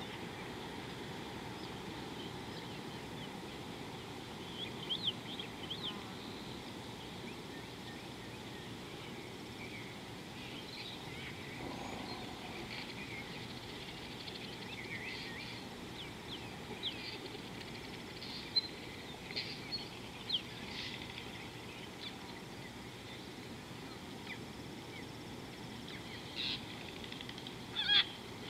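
Birds calling with scattered short chirps and quick whistled notes over a steady hiss of outdoor background noise, with a few louder calls near the end.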